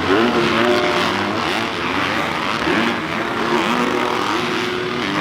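Motocross dirt bike engines revving hard, their pitch climbing and dropping again and again as the riders work through the gears.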